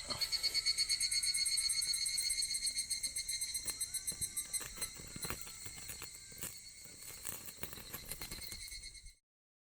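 Insects chirping in rapid, even pulses of high-pitched tones, fading over the seconds, with the sharp snaps of a wood campfire crackling. The sound cuts off suddenly about nine seconds in.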